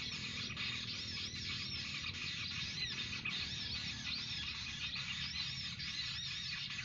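Small bird giving a rapid, even series of short, high arched chirps, several a second, over a steady outdoor hiss.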